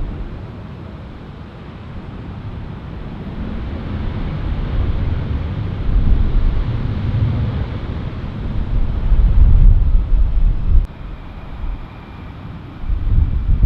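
Wind buffeting the microphone in uneven gusts, loudest around the middle, over a steady rushing background.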